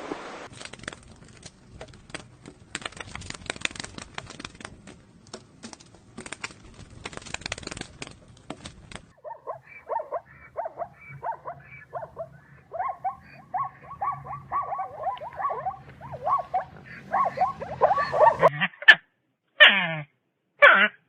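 About nine seconds of crackling, rustling clicks, then a dog giving a quick run of short yips, each falling in pitch. Near the end come a few louder yelps that drop steeply.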